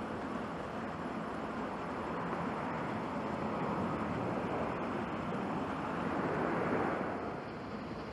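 Airbus A320neo's CFM LEAP-1A jet engines at takeoff power as the airliner departs, a steady rushing noise that swells, then drops off shortly before the end.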